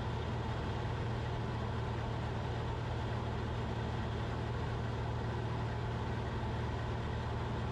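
Cessna 172RG's Lycoming O-360 engine and propeller droning steadily in flight, a constant low hum with a wash of airflow noise.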